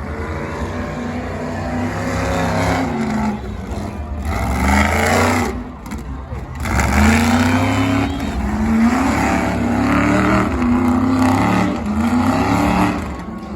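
A monster truck's big engine revving hard under load. Its pitch climbs and falls several times, with a brief drop in level about six seconds in.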